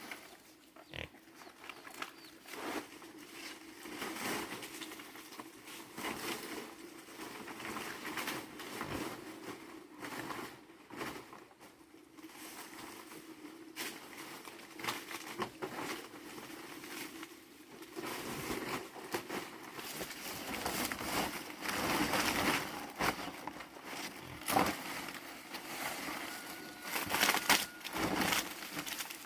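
Pigs grunting, with irregular rustling and light knocks throughout, getting louder in the second half.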